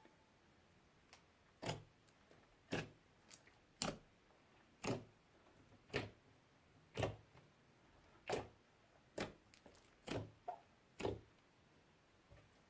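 Slime being kneaded and folded by hand, giving about ten sharp pops and clicks of squeezed air, roughly one a second.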